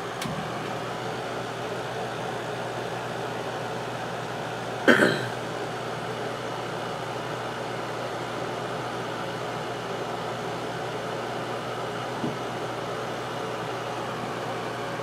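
1994 White Westinghouse 5200 BTU window air conditioner running steadily, its A.O. Smith fan motor and Goldstar compressor giving an even rush of air with a low hum. A faint click comes at the very start, and a sharp, louder click about five seconds in is followed by a brief falling tone.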